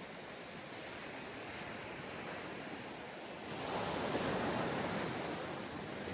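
Ocean waves breaking on a sandy beach, with a steady wash of surf and one wave crashing louder about three and a half seconds in before fading.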